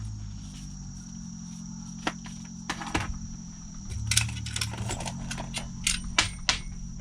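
Small hard items clicking and clinking as someone rummages through a range bag, a few sharp clicks at first, then a quick run of light metallic clinks over the last few seconds. A steady low hum and a faint high tone run underneath.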